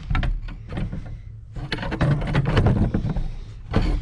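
A run of irregular knocks, clunks and scrapes from things being handled and shifted, with a low rumble underneath.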